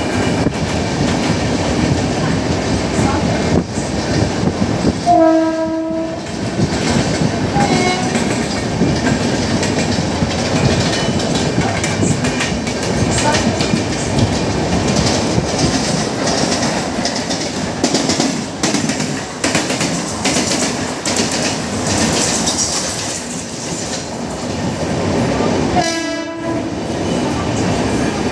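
Steady running noise and clickety-clack of a moving passenger train's wheels on the rails, heard from inside a coach through an open window. A train horn sounds twice, about five seconds in and again near the end, each blast about a second long.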